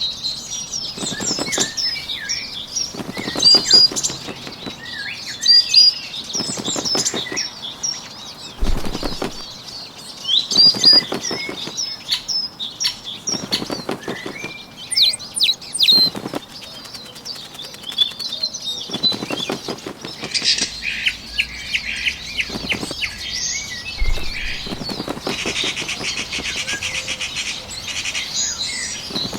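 Bird wings flapping in short flurries every second or two, over continuous high chirping birdsong. In the last third a denser, buzzy high trill joins in.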